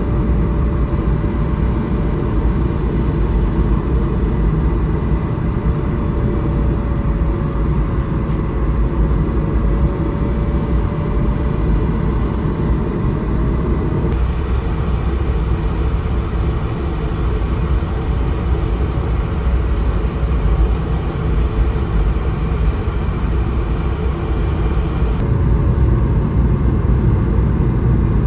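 Steady airliner cabin noise heard from a seat inside an Airbus A220-300: a continuous rush of airflow with the drone of its Pratt & Whitney PW1500G geared turbofans and a faint wavering tone. The sound changes abruptly about halfway through and again near the end.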